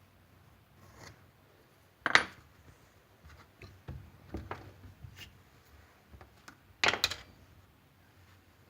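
Scattered light taps, clicks and scrapes of small tools and objects handled on a work surface during clay work, with two louder knocks about two seconds in and again about seven seconds in.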